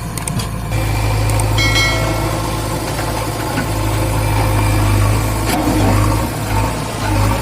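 Swaraj 744 FE tractor's three-cylinder 3136 cc diesel engine running steadily under a low, even drone.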